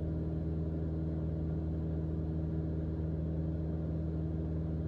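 Mooney M20J's four-cylinder Lycoming engine and propeller droning steadily in level cruise, heard inside the cabin.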